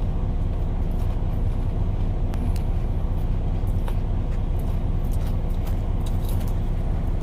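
Diesel engine of a parked semi-truck idling steadily, a low even drone, with a few faint clicks over it.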